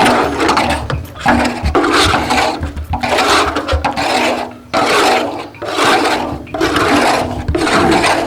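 Repeated scraping strokes of a rambi, a flat-bladed iron scraper, working thickened jaggery, about one rough rasping stroke a second.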